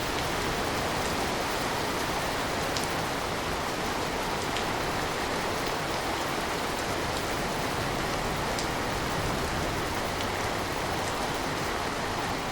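Steady rain falling, with scattered light drop ticks.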